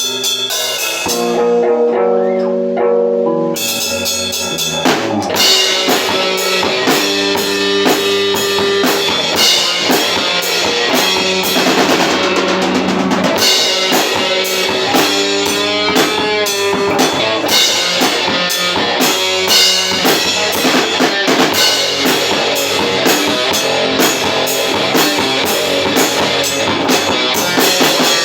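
A metal band rehearsing with electric guitar, bass and drum kit. Guitar rings alone at first, then the drums and bass come in after about three and a half seconds and the full band plays on at a driving tempo.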